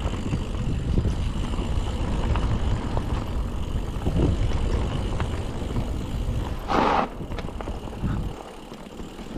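Mountain bike running fast down a rough dirt trail: wind rushes over the microphone and the bike rattles and clicks over the bumps. About seven seconds in there is one short burst of hiss, and the sound eases off near the end.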